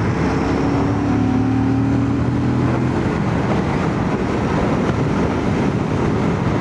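Royal Enfield Shotgun 650's parallel-twin engine running at a steady, slightly rising pitch for about three seconds, then mostly a rushing wind and road noise, heard through a microphone inside a full-face helmet.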